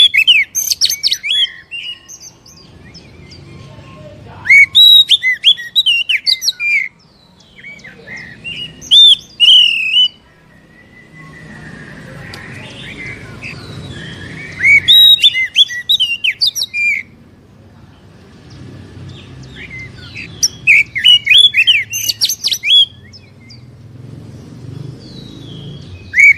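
Oriental magpie-robin (kacer) singing in loud bursts of rapid, sweeping high notes, about six phrases of a couple of seconds each with pauses between. It is a lure song (pancingan) played to provoke other magpie-robins into singing.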